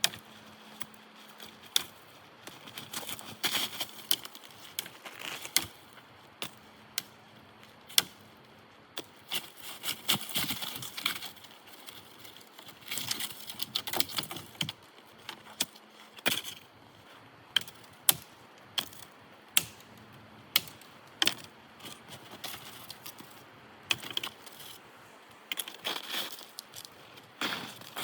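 Irregular sharp cracks and snaps of wood, scattered unevenly, with bouts of rustling and crunching between them.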